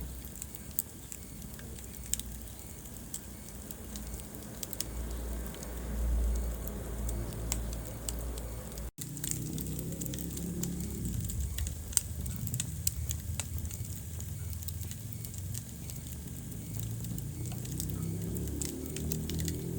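Wood fire burning in a fireplace: a low rumble of flames with many scattered sharp crackles and pops, one louder pop about twelve seconds in. The sound cuts out for an instant about nine seconds in.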